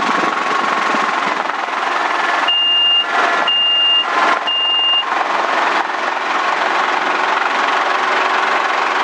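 Schweizer S300 CBi helicopter's four-cylinder Lycoming engine and rotor running steadily, with three short, high beeps from a cockpit warning tone starting about two and a half seconds in, each about half a second long.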